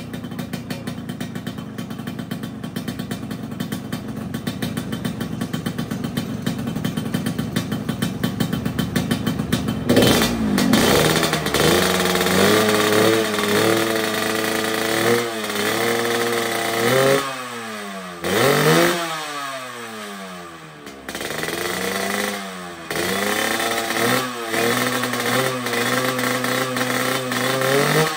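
Yamaha RX-King's 135 cc two-stroke single-cylinder engine idling steadily for about ten seconds, then revved repeatedly in short blips, its pitch climbing and falling back each time, as it is set up after a major service.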